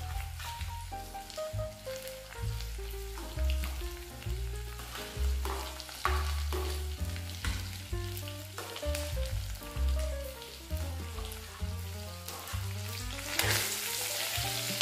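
Chicken pieces frying in hot oil in a clay pot, a steady crackling sizzle as sliced onion, garlic and green peppers are added; the sizzle grows louder near the end as a spoon stirs them in. Background music with a melody over a bass line plays along with it.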